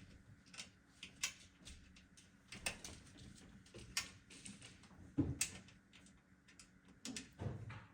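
Scattered clicks and knocks of computer parts being handled and fitted into a PC case, with the sharpest knock about five seconds in and a few more near the end.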